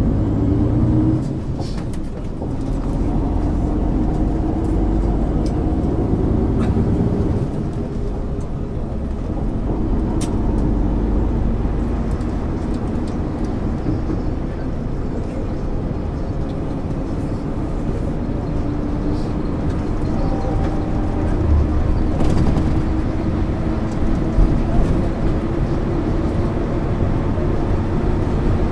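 Diesel engine of a MAN ÜL 353 bus under way, heard from inside the bus, its pitch climbing and dropping with gear changes and dips in level at about two and seven seconds in. Short rattles and clicks come through over the engine.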